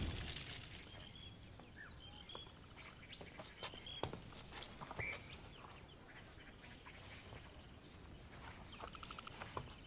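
Faint birdsong: scattered short high chirps and a quick trill near the end, over quiet outdoor ambience, after a swell of music fades out in the first second.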